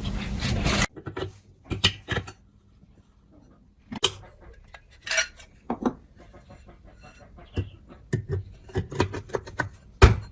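Metal parts clinking and knocking as they are handled, a scattered series of separate clicks and clanks. A loud noisy sound cuts off suddenly about a second in.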